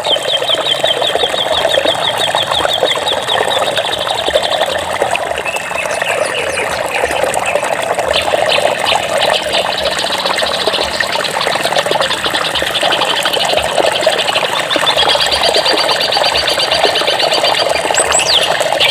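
Flowing water, a steady noise throughout, with birds singing fast, evenly pulsed trills several times over it and a brief rising call near the end.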